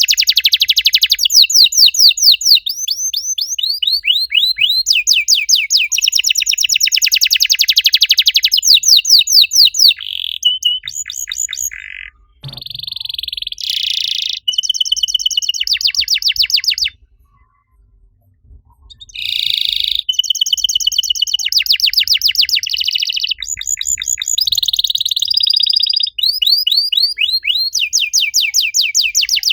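Domestic canary singing: long runs of rapid, high repeated notes and trills, one tour rolling straight into the next, with a short pause a little past halfway.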